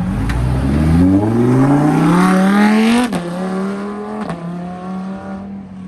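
A car engine accelerating hard under full throttle, its revs rising for about three seconds before an upshift drops the pitch, followed by a second shift about a second later as it pulls away and fades.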